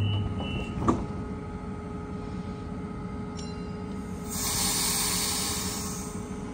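Sydney Trains double-deck electric train standing at the platform, its onboard equipment humming steadily. A sharp click comes about a second in, and about four seconds in a burst of air hisses out for about two seconds.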